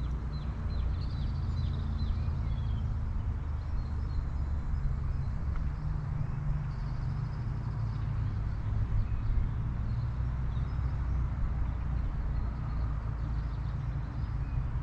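Small birds chirping faintly over a steady low rumble.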